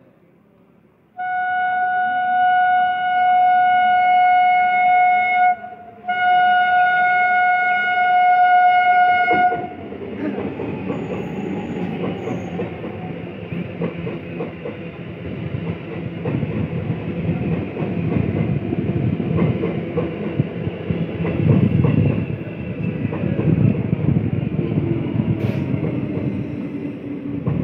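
Indian Railways EMU local train sounding two long horn blasts of one steady pitch, with a short break between them. Then it runs past close by: the rumble of the coaches with the wheels clattering on the rails.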